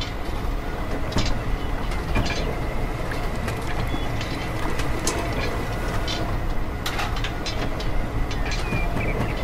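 Small electric motor of a miniature belt-driven juice machine running steadily, with irregular clicks and rattles from the mechanism.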